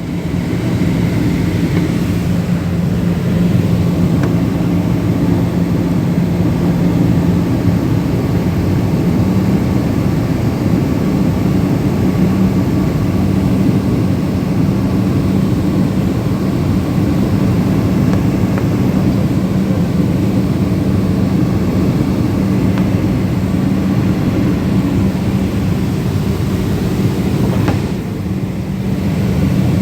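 Passenger aircraft cabin noise in flight: the engines and airflow make a steady rushing drone with a low hum under it. It drops briefly a couple of seconds before the end.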